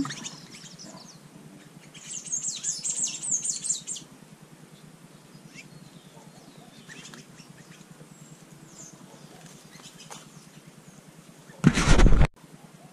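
Small birds chirping, with a loud burst of rapid, high chirps about two seconds in that lasts a couple of seconds. Fainter chirps go on in between. Near the end comes a brief, loud rushing noise about half a second long.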